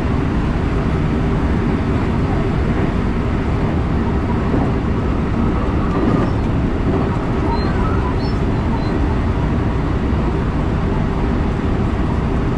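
JR West electric train running along the line, heard from inside the passenger car: steady running noise of wheels on rail and traction motors at an even level. A few brief, faint high squeaks come about two-thirds of the way through.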